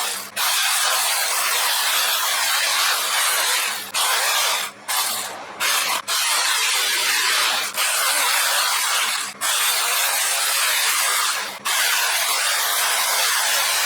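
Battery electric chainsaw cutting through firewood: a continuous rasping noise from the chain in the wood, breaking off for a moment several times.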